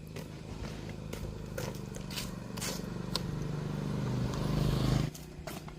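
A motorbike engine running and growing louder, then switched off abruptly about five seconds in, with a few scattered clicks and knocks over it.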